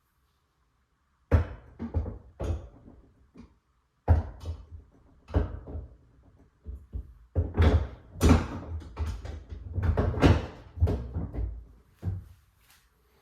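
Refrigerator shelves being put back in place: a series of irregular clunks, knocks and short scrapes, starting about a second in.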